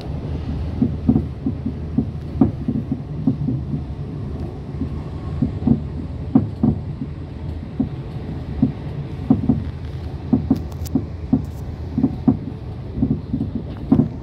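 Passenger train running at speed, heard from inside the carriage: a steady low rumble with frequent irregular knocks and clatters as the wheels run over the track.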